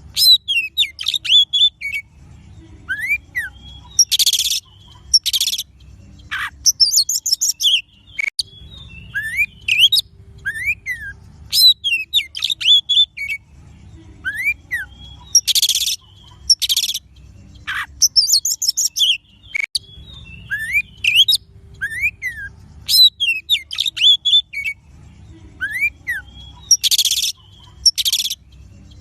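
Oriental magpie-robin (kacer) singing a varied song of chirps and up-and-down whistles broken by short harsh rasping notes. The same run of phrases repeats about every eleven seconds, as a looped lure recording.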